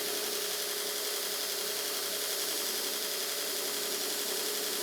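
Belt grinder running steadily with no work against the belt: an even motor hum with a constant tone and the hiss of the moving belt.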